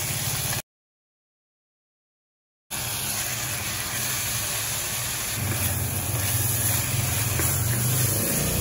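Corned beef and onions sizzling in a stainless steel pan while being stirred with a wooden spatula, over a low steady hum. The sound cuts out completely for about two seconds near the start.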